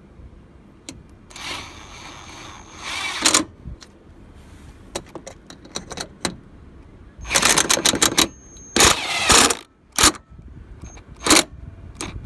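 Clicks, knocks and plastic clatter as the upper fan shroud is fitted back over a truck radiator, with two longer stretches of scraping and rustling.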